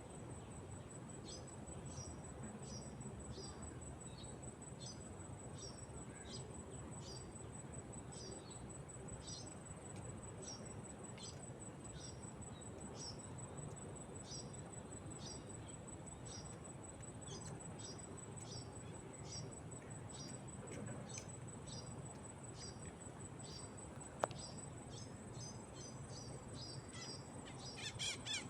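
Tropical park ambience: a steady, very high-pitched insect trill, with short high bird chirps repeating about once or twice a second. A single sharp click about three-quarters of the way through, and a louder flurry of calls near the end.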